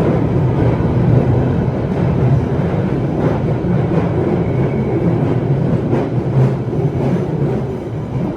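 Cabin noise of a London Underground Central Line 1992 Stock train under way: a steady low rumble from the running gear, with a few faint clicks of the wheels over rail joints.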